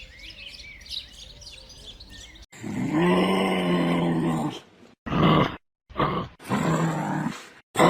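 Small birds chirping faintly, then after a sudden cut a large animal calling loudly: one long drawn-out call of about two seconds, followed by several shorter calls.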